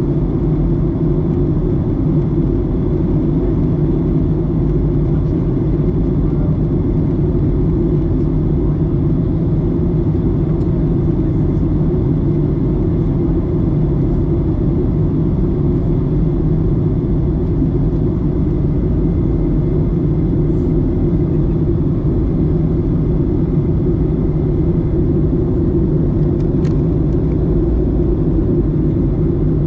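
Steady, low rumbling cabin noise inside a Boeing 737-900ER airliner, with faint steady high tones above it.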